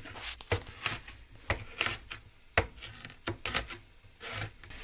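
Kitchen handling noise: irregular sharp clicks and knocks, several a second, as utensils and cookware are handled during cooking.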